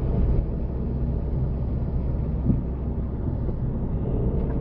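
Steady low rumble of a car driving, engine and road noise as picked up by a dashboard camera.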